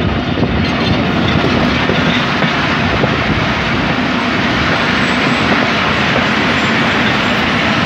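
Pakistan Railways passenger train rolling along the track, heard from a coach window: a steady rumble and rush of wheels on rails.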